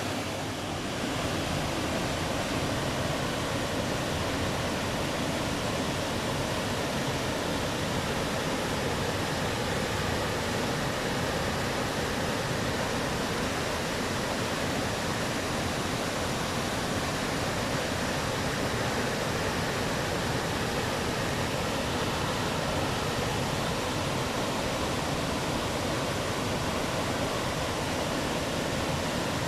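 Waterfall: water falling steadily, an even, unbroken rushing noise that does not change.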